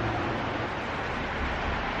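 Steady rush of fast-flowing river water. The river is running high and fast after a rapid rise, turning the stretch into a rapid.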